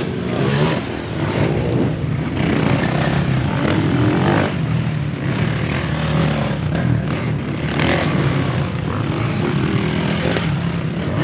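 Motorcycle engine running steadily under way, its pitch wavering a little with the throttle, over a continuous rushing noise.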